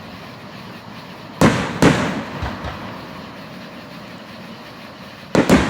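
Aerial firework shells bursting: two booms about a second and a half in, half a second apart, each with a fading echo, then two more close together near the end.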